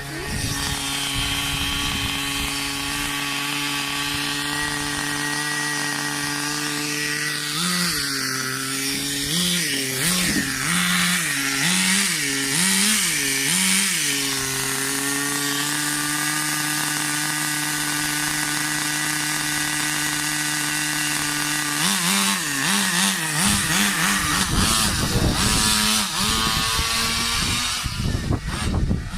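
Thunder Tiger 15 Pro nitro engine in an RC car idling steadily, with the throttle blipped up and back down about six times in quick succession about a third of the way in. Near the end it is blipped again and opens up into louder, rougher running.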